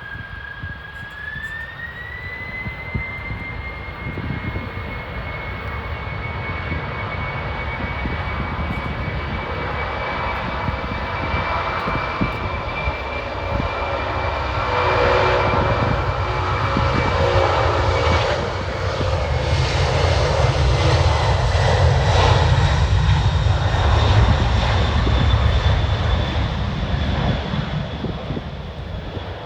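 Jet engines of a Boeing 747-400F cargo jet running. A whine rises in pitch a couple of seconds in as the engines spool up, then holds steady. A deep rumble builds to its loudest in the second half and eases off near the end.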